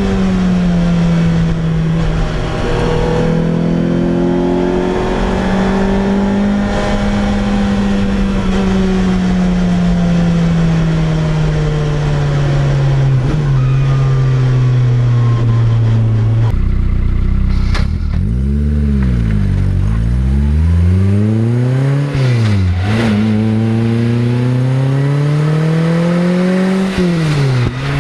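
Lotus Exige Cup's four-cylinder engine and loud exhaust, driven hard. The engine note holds steady and sinks slowly through the first half, then dips and climbs sharply several times in the second half, with short drops in revs that sound like gear changes.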